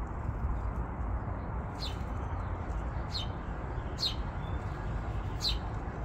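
A small bird chirping four times, each call short and sliding downward, over steady low background noise.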